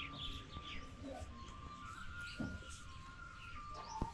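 Faint chirping of small birds, short scattered calls, over a thin steady tone in the background.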